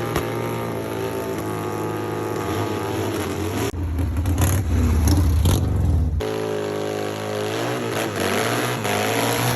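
Motorcycle engine revving, with a louder burst of revs from about four to six seconds in, then the pitch rising and falling.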